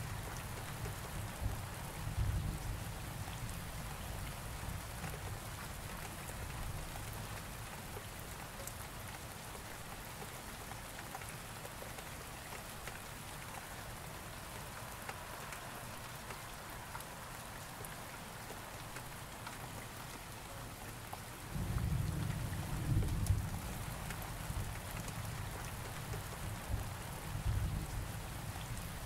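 Steady rain falling, with low rolling thunder. The rumble is heavier in the first few seconds, dies down, then swells again suddenly about three-quarters of the way through.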